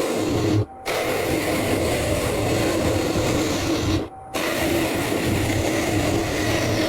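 Woodworking power tool running steadily, broken off briefly twice.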